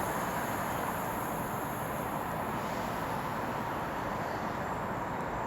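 London Northwestern Railway Class 350 electric multiple unit at the station, a steady even rumble with a faint high whine that fades out about two and a half seconds in.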